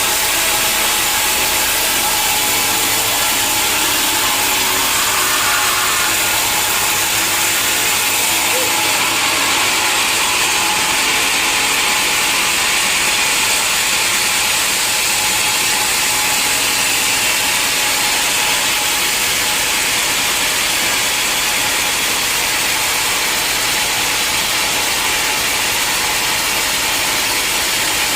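Sawmill machinery running steadily: an even, unbroken mechanical noise with a constant hiss and hum.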